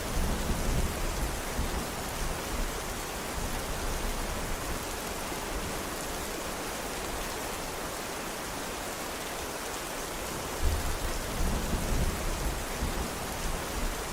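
Steady rain hissing, with two low rumbles of thunder: one at the start and one about eleven seconds in.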